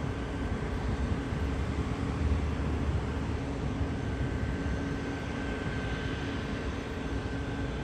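Steady low mechanical rumble with faint, steady humming tones over it; no single event stands out.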